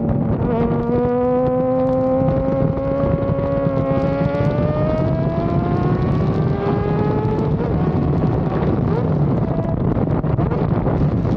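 Honda CBR sport motorcycle's engine pulling hard, its pitch climbing slowly in two long pulls, the second ending about three-quarters through, over a steady low rush of wind noise on the microphone.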